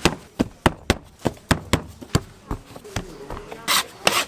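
Hands working dough on a work board: a quick run of sharp taps, about four a second, then rubbing strokes near the end as the dough is rolled.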